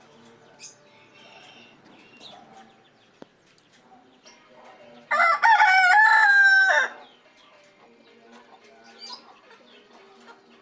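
A rooster crowing once: a single loud call of nearly two seconds, about halfway through, against faint bird chirps.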